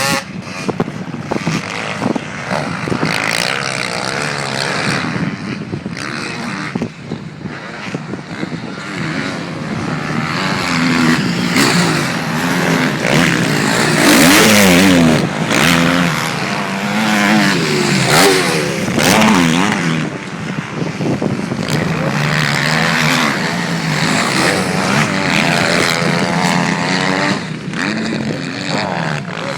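Motocross motorcycle engine revving hard, its pitch repeatedly climbing and dropping as the throttle opens and closes, over a rush of noise.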